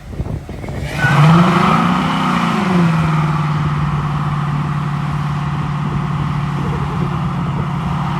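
Car engine revving up about a second in, climbing in pitch and dropping back, then held at steady high revs for several seconds.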